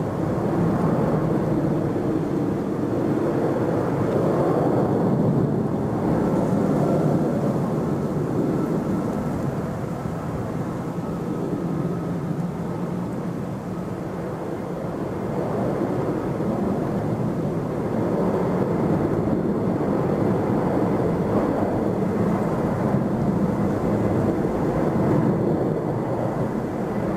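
Jet airliner's engines at takeoff thrust: a steady, dense rumble that eases slightly midway, with a faint high whine for a few seconds.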